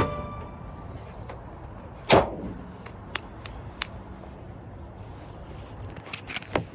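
A loud metal bang about two seconds in, then a few light clicks and knocks over a steady hiss, made while putting a car battery back into the car.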